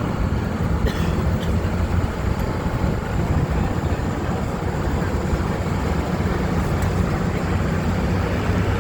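Engine and drivetrain of an amphibious duck tour vehicle running steadily on land, heard from aboard as a loud low rumble, with a couple of faint clicks about a second in.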